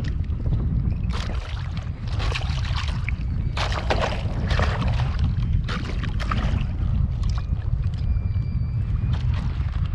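Strong wind buffeting the microphone, a constant low rumble, with irregular hissing bursts of wind and water noise. A faint, thin high tone is heard briefly past the middle.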